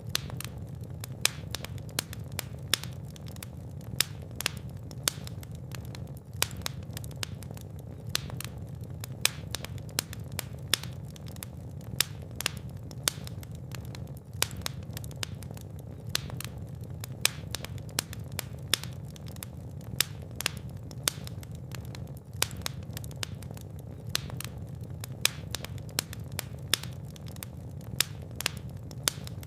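Fire burning in a fireplace, crackling with frequent sharp, irregular pops over a steady low rumble of the flames.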